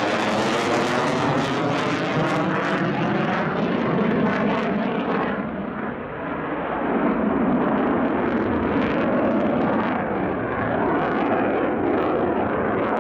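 Military jet engine noise from a fast jet passing low, loud and steady with a slight dip about halfway through before it rises again.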